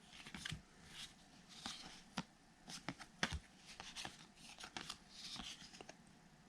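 Baseball cards being flipped through by hand: faint, irregular flicks and slides of card against card.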